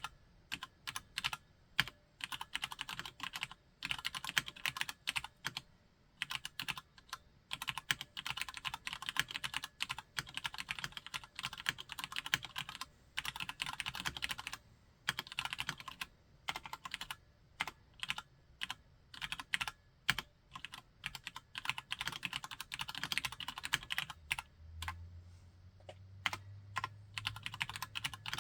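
Cherry G80-3000S tenkeyless mechanical keyboard with Cherry MX Brown tactile switches being typed on, keys clacking in fast dense runs broken by short pauses. A faint low hum comes in near the end.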